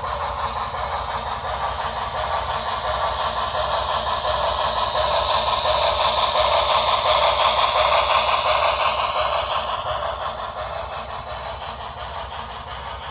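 HO scale model train running past, a steady rolling and running noise that grows louder to a peak about eight seconds in, then fades away.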